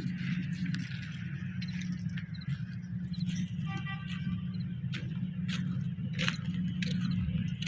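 Wood fire crackling with scattered sharp pops, over a steady low hum; a brief high squeak about halfway through.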